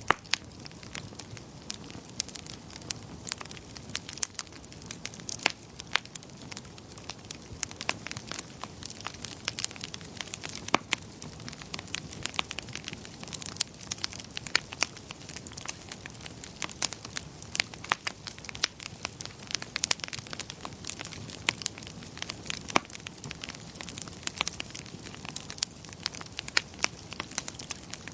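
Wood fire crackling: frequent, irregular sharp pops and snaps over a steady low hiss.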